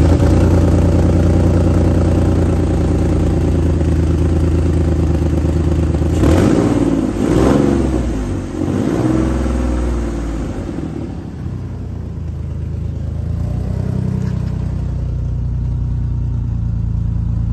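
2005 Infiniti G35's 3.5-litre VQ35DE V6 running at a fast idle just after a cold start, with two short revs about six and seven seconds in. The engine then settles to a steadier, slightly quieter idle about twelve seconds in. It has an open hole in the Y-pipe, so the exhaust is leaking.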